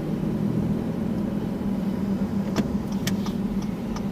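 Car cabin noise while driving slowly: a steady low engine and road hum, with a couple of short clicks about two and a half and three seconds in.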